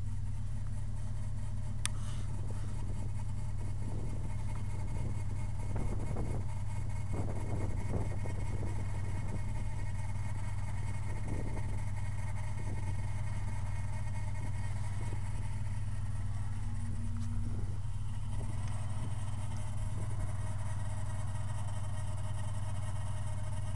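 3.8 V6 engine running steadily, with a steady whine over its hum; the whine grows a little stronger near the end.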